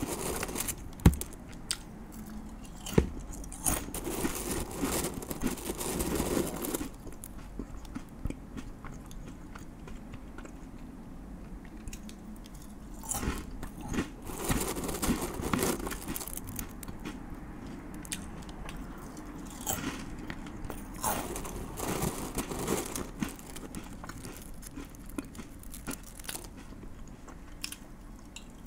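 A man chewing and biting close to a microphone as he eats giant spoon worm (gaebul): irregular wet, crunchy mouth sounds with a few sharp clicks, the loudest about one and three seconds in.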